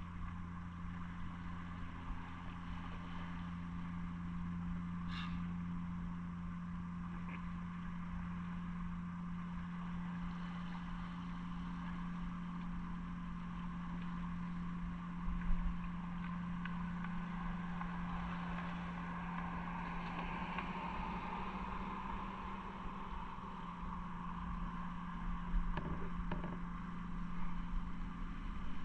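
Motorcycle engine running at a steady pitch while riding, under a constant rush of wind and road noise.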